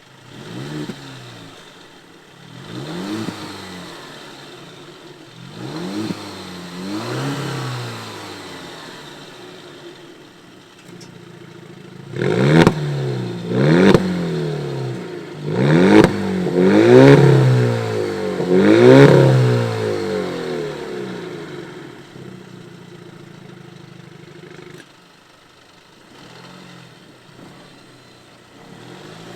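Alfa Romeo Stelvio's turbocharged 2.0-litre four-cylinder petrol engine, breathing through an aftermarket active cat-back exhaust, revved again and again: each blip rises quickly and falls back. The blips grow sharper and louder from about halfway through, a few starting with a sharp crack, then settle to a quieter idle near the end.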